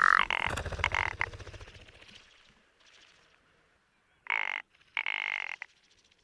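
Rock ptarmigan calling: a loud, dry, rattling croak that trails off over about two seconds, then two short, harsh croaks near the end.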